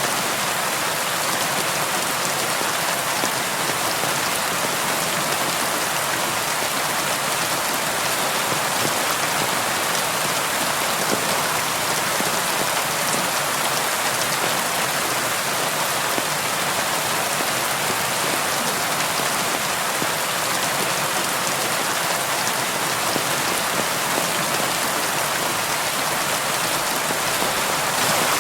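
Steady rain falling on window glass: an even, unbroken hiss with faint scattered ticks of single drops.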